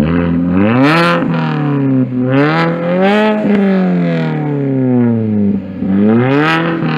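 Mini Cooper S engine with its muffler deleted, revved hard three times while standing, each rev climbing in pitch and falling back. Really loud.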